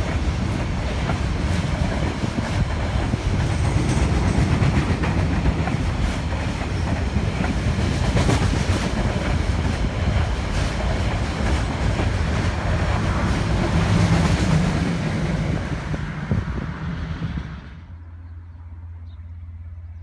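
Train running past close by, its wheels clattering over the rail joints. Near the end the noise drops away sharply, leaving only a low steady hum.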